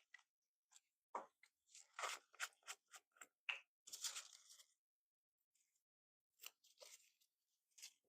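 Faint, scattered clicks and scrapes of small plastic cups and tools being handled while pigment is added to mixed epoxy resin, in a quick cluster in the first half and a few more near the end.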